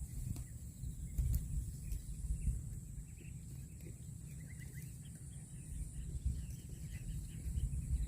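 Outdoor ambience: a steady low rumble with a few faint, short bird chirps and a steady high-pitched whine.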